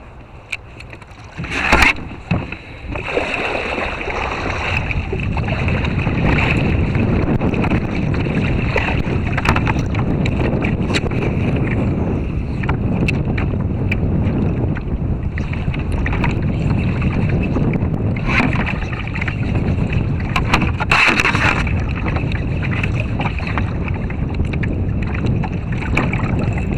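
Wind buffeting the microphone over water lapping around a kayak, a steady rushing noise heaviest in the low end. A couple of brief sharp splashes or knocks come through, one about two seconds in and one near three-quarters of the way.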